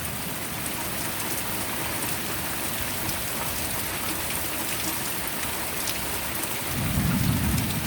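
Heavy rain coming down steadily, a dense even hiss of drops on the ground. Near the end a low rumble swells in, likely distant thunder.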